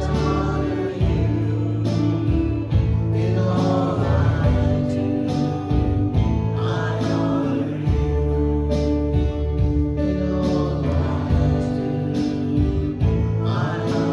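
Contemporary worship band playing a slow song with guitar and a steady bass, with sung phrases coming in every few seconds.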